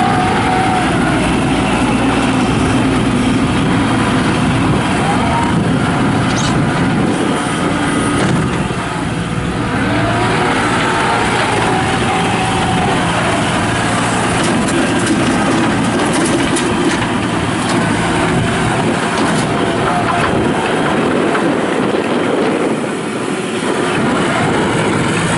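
2001 New Holland LS180 skid steer loader's diesel engine running loud and steady while the machine is operated, its pitch rising and falling a few times as it is worked.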